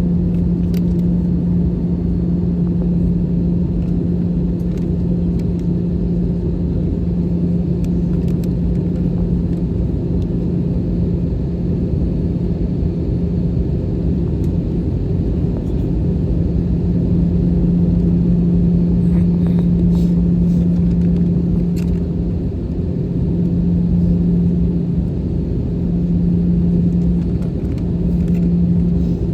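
Cabin noise of an Airbus A320-214 with CFM56 engines running: a steady low drone of engines and airflow with a constant hum, which wavers a little near the end.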